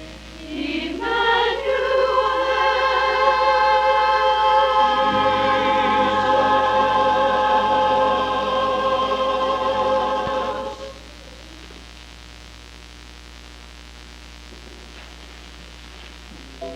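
Church chancel choir singing, rising into a long held chord that cuts off about eleven seconds in. After that only a steady low hum from the old VHS tape remains until music starts again at the very end.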